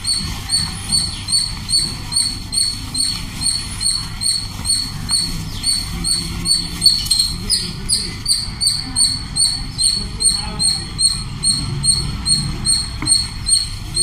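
A bird chirping over and over, one short high chirp about every half second without a break. Beneath it, powdery dry clay crumbles and sifts through hands with a soft, grainy rustle.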